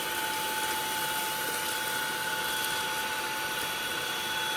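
Nvriow cordless stick vacuum running steadily on its low power setting: a constant motor whine over an even rush of air.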